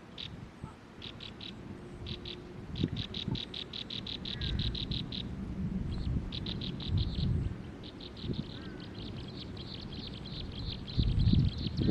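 A small bird singing rapid runs of short, high, identical notes, about seven a second, breaking off and starting again several times. A low rumble comes in near the end.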